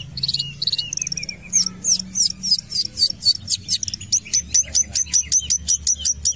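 Long-tailed shrike (cendet) singing actively: a few high opening notes, then about a second in a long fast run of sharp, downward-swept high notes, about four to five a second.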